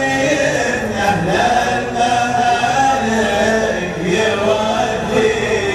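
Male voice chanting a Gulf Arabic sung poem (shilat-style chant) in long, drawn-out melodic lines, layered with other voices like a choir.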